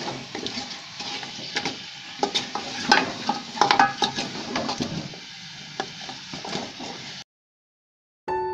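Beef trotters frying with spices in a metal pot, sizzling steadily while a spoon stirs them, knocking and scraping against the pot many times. The sound cuts off about seven seconds in, and soft piano music begins near the end.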